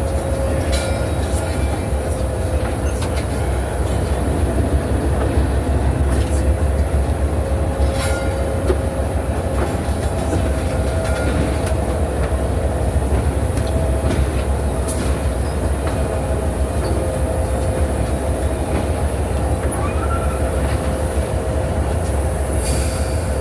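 Passenger train rolling along the track, heard from aboard: a steady low rumble with a constant tone over it and occasional clicks from the wheels on the rails.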